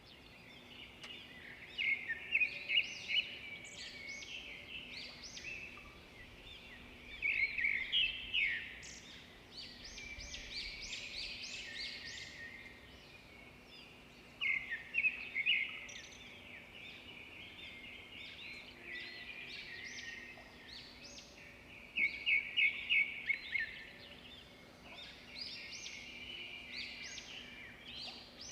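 Birds chirping and singing: quick runs of high, short notes in several louder bursts, over a faint steady hum.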